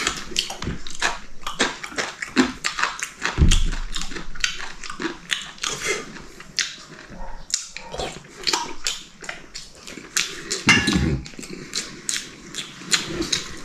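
Close-up eating sounds: a person chewing and smacking on food, with frequent short irregular clicks and a couple of low thuds.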